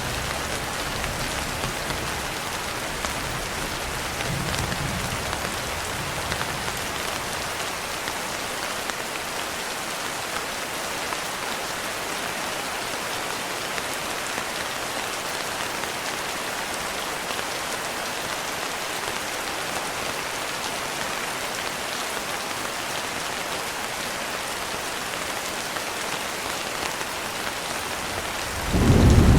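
Steady rain pattering on a window, with a faint low rumble in the first few seconds. A loud low peal of thunder breaks in at the very end.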